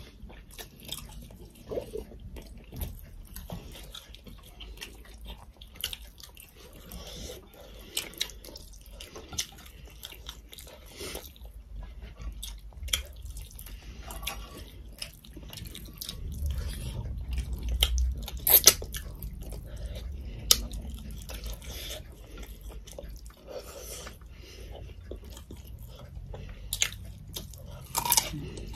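People eating chicken curry and rice with their hands: wet chewing and lip-smacking, with scattered small clicks and a few sharper ones.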